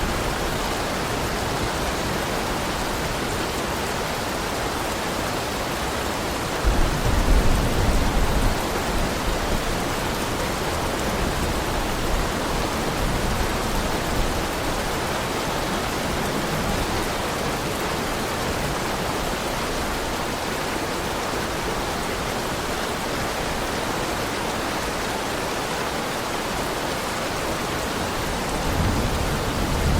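Steady heavy rain, an even hiss of falling water, with a brief low rumble about seven seconds in and a smaller one near the end.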